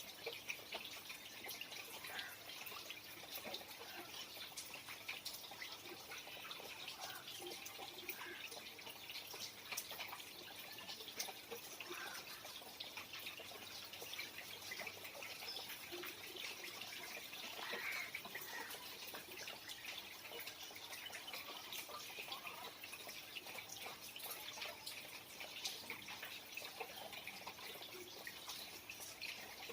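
Rain falling and dripping: a steady hiss scattered with many small drop impacts.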